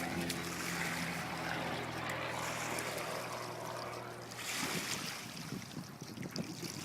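Propeller aircraft engine drone fading away as the plane flies off, its steady tone dying out about four seconds in. Wind gusts then buffet the microphone.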